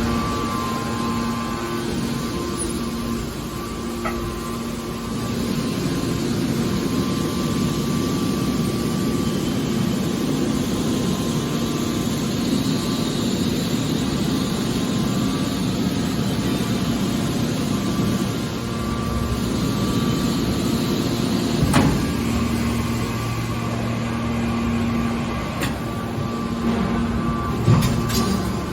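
Hydraulic scrap steel baler running, its hydraulic power unit humming steadily, with a sharp metallic knock about two-thirds of the way through and another near the end.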